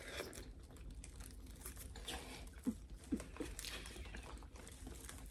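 Eating sounds close to the microphone: soft wet chewing and smacking with scattered small clicks and light crinkling, and a few short squeaky mouth smacks around the middle.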